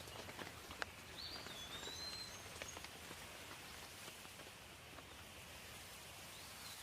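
Light rain falling, a soft steady hiss with scattered individual drops ticking. A bird gives a short whistled call about a second in and another near the end.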